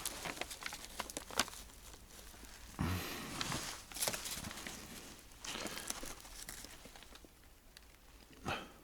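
Old newspaper rustling and crinkling as it is unfolded and handled, in several short bursts with small clicks between them.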